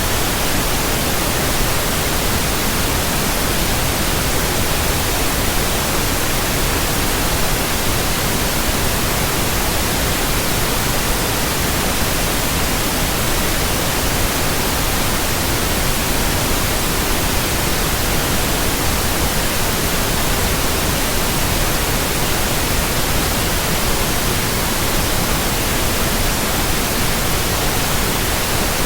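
Pure white noise, electronically generated: an even hiss spread across the whole range from deep to very high, holding the same level with no changes or events.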